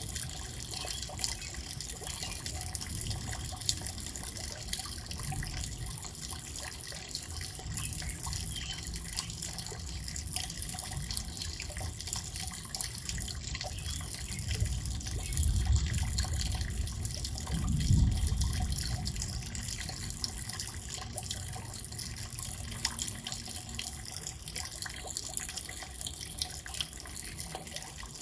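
Steady rain falling, an even hiss with many small ticks of drops. A low rumble swells about halfway through, twice in quick succession.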